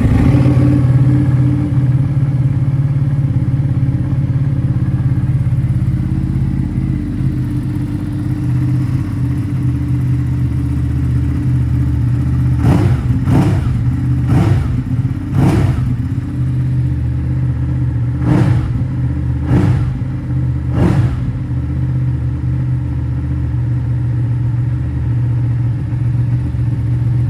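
2018 Ducati Panigale 959 Corse's 955 cc Superquadro L-twin idling steadily through an Akrapovic titanium underslung exhaust. About halfway through it is blipped around seven times in quick succession, each rev rising and dropping straight back to idle.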